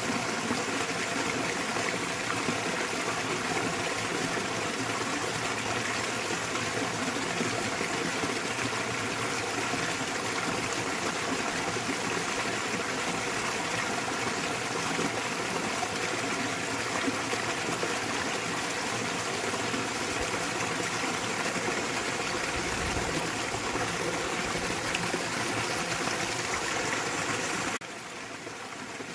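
Small waterfall splashing steadily into a mountain stream, an even rush of water. It drops noticeably quieter near the end.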